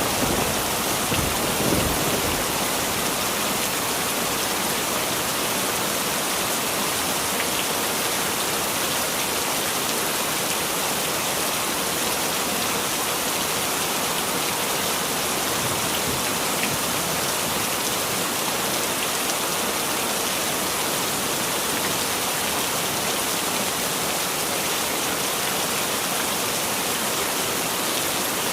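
Heavy rain falling steadily in a dense, even hiss, with the tail of a thunder rumble dying away in the first couple of seconds.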